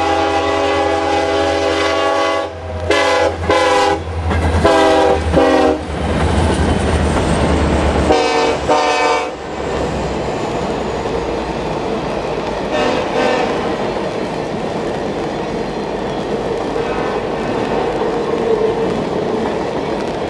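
Union Pacific 4141, an EMD SD70ACe diesel locomotive, passing at speed and sounding its air horn over the engine's deep rumble: one long blast, then several shorter ones, the last about nine seconds in. Then the horn and rumble stop, and the passenger cars roll by with steady wheel noise and clickety-clack.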